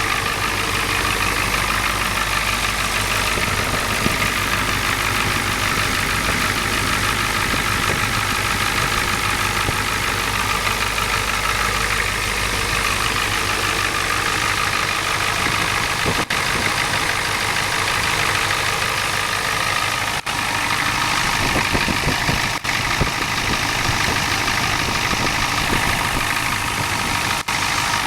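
1992 Ford F-350's turbo diesel V8 engine idling steadily under the open hood.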